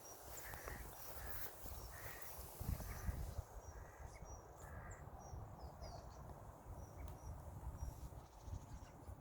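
Small birds calling with short, thin, high notes repeated through the woods, with a few lower, harsher calls in the first three seconds. A faint low rumble runs underneath.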